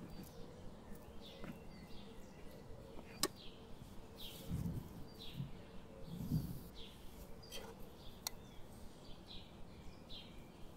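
Faint outdoor ambience of small birds chirping in short, repeated high calls, with a few sharp clicks and two soft low thuds around the middle.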